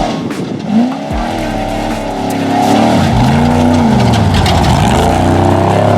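Off-road race truck's engine revving hard, its pitch rising and falling several times as it drives and shifts; it grows louder about halfway through.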